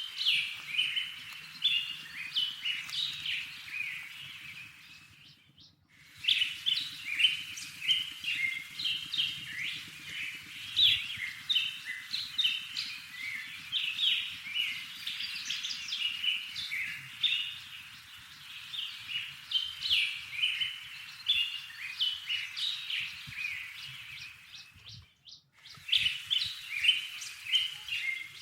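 Small songbirds at a feeder chirping and twittering in a dense, rapid chorus of high notes. It breaks off briefly twice: about five seconds in and a few seconds before the end.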